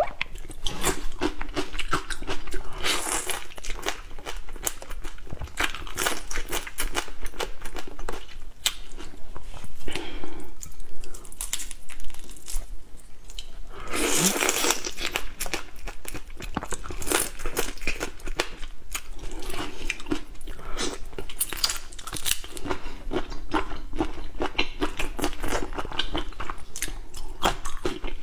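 Close-miked mouth sounds of eating whole marinated shrimp: shell and head crunching and crackling between the teeth, with tearing as shell is peeled off. There is a louder stretch of crunching about halfway through.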